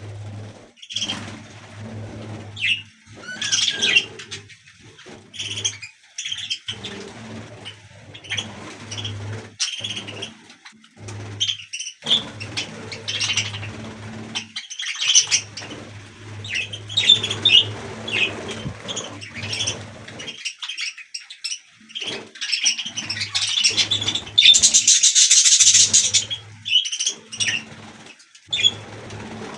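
Budgerigars chirping and chattering in many short, rapid calls, with a louder burst of wing flapping about two-thirds of the way through.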